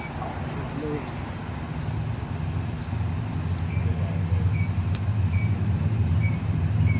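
A vehicle engine idling with a steady low hum that grows a little louder, while a small bird chirps over it, a short high note about once a second.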